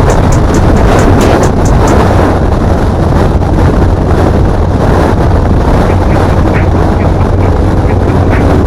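Car on the move: a steady, loud rumble of engine, road and wind noise buffeting the microphone. A quick ticking beat of music fades out about two seconds in.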